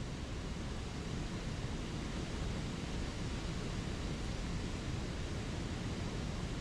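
Steady wash of a spring creek's water flowing, an even rushing noise with most of its weight in the low range.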